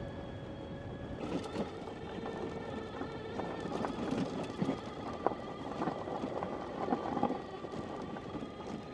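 Electric motorcycle's motor and drivetrain whining in steady tones, the pitch shifting about a second in, over the noise of tyres on a rough road with scattered clicks and knocks.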